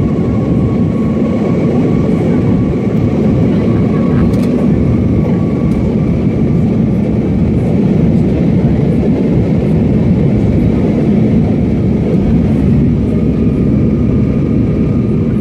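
Steady in-flight cabin noise of an airliner: engine and airflow noise with a faint steady whine above it.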